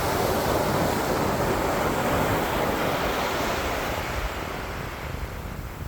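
Ocean surf breaking on a beach: a dense rush of crashing water that slowly fades over the last few seconds as the wave runs out. Wind buffets the microphone underneath.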